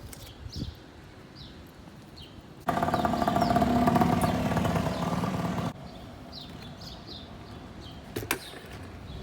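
A loud mechanical running noise with a steady hum comes in abruptly a few seconds in and cuts off abruptly about three seconds later. Birds chirp throughout, and there are a couple of sharp clicks near the end.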